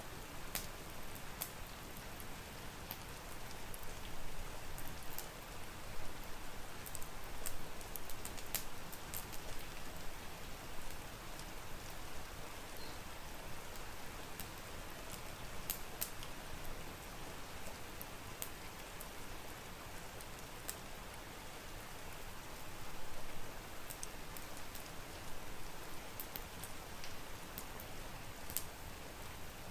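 Steady rain mixed with a crackling wood fire: an even hiss with scattered sharp crackles at irregular moments.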